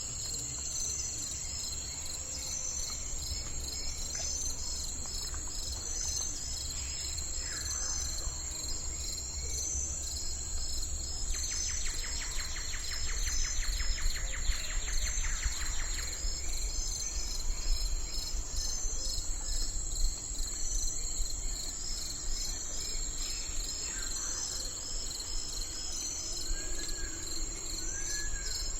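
Steady chorus of crickets and other insects, a continuous high-pitched drone with evenly pulsing chirps. About halfway through a rapid buzzing trill runs for a few seconds, and near the end a bird gives a few short arching chirps, over a low rumble.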